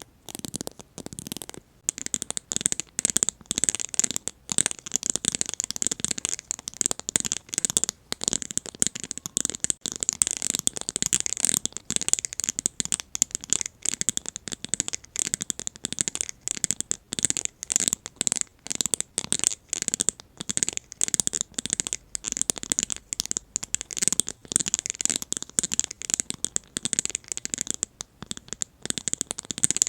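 An ASMR cubic plate, a board set with small faceted gems, being scratched and rubbed over and over. It makes a rapid, irregular run of short, crisp, hissy scratches, several a second.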